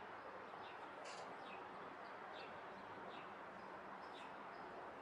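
Faint small bird chirping over and over, short falling chirps about twice a second, over a steady background hiss.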